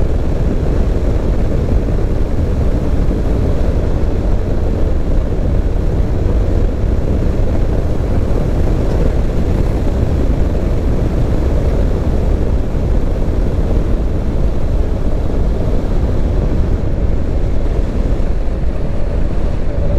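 Steady driving noise from a vehicle cruising along a road: a constant low rumble of road and wind noise with no changes.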